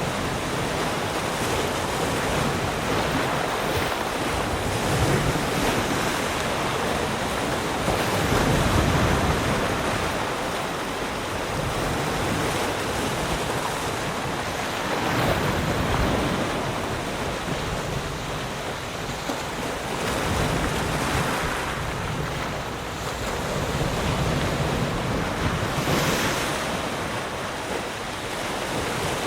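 Ocean waves breaking and washing on a shore, a continuous surf rushing that swells and eases every several seconds.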